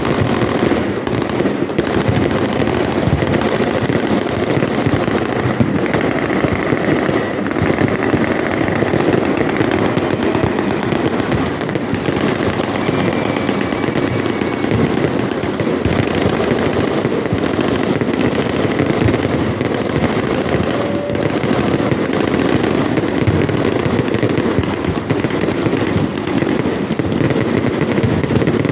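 Fireworks display: a dense, unbroken rattle of rapid bangs and crackling, held at a steady loudness throughout.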